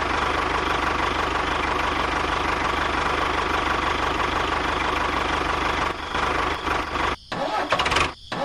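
Motor of a DIY miniature tractor running steadily, an engine-like chatter with a faint steady whine, cutting out abruptly twice near the end.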